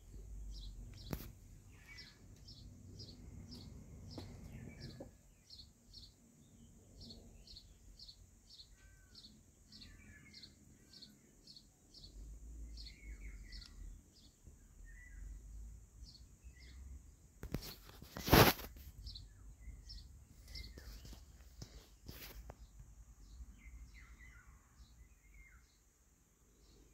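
Birds chirping outdoors: a short high chirp repeated about twice a second, with scattered lower bird calls, and one sharp knock, the loudest sound, about eighteen seconds in.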